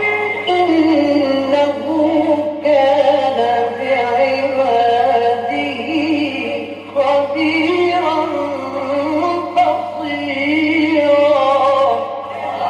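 A male Quran reciter's unaccompanied voice drawing out a long melodic phrase of recitation, its pitch winding up and down, with brief breaks for breath about two and a half and seven seconds in.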